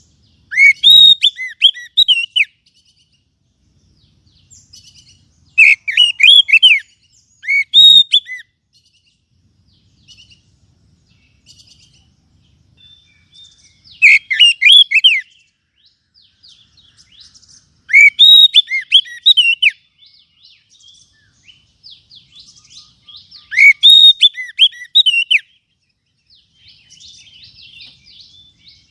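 Oriental magpie-robin singing a lure call: loud bursts of rapid, varied whistled phrases, about six of them spaced several seconds apart, with soft twittering in between.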